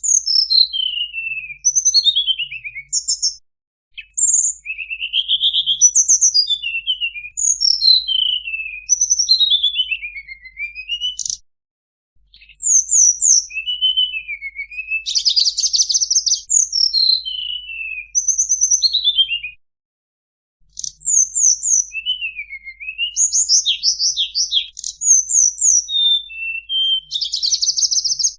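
Tledekan song played as a lure call: rapid high whistled notes sliding down and up, strung into phrases several seconds long with short pauses between them. Twice, about halfway and again near the end, the song breaks into a dense buzzy trill.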